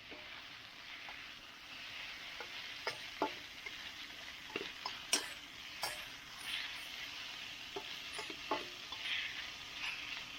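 Food sizzling in a hot pan, a steady hiss with scattered crackles and ticks.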